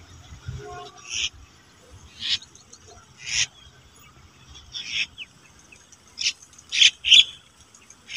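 A bird calling with short, sharp, high notes, about eight of them at irregular intervals, coming closer together near the end.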